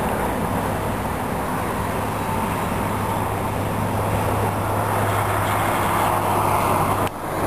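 Steady distant rumble and low hum of a train hauled by two electric locomotives, with a brief dip in level near the end.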